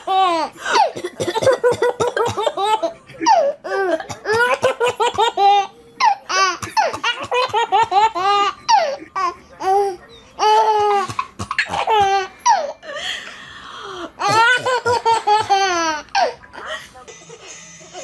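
A baby laughing hard, in repeated bouts of high-pitched belly laughs with short breaks between them; the laughter stops near the end.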